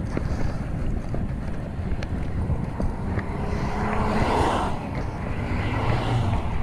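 Wind buffeting the microphone of a bike-mounted action camera while riding, with a vehicle going by about four seconds in.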